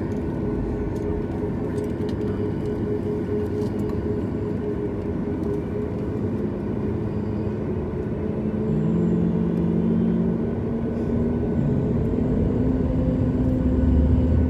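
Boeing 737 MAX's CFM LEAP-1B jet engines running at taxi power, heard from on board as a steady rumble with engine tones. It gets louder a little past halfway, as thrust is added.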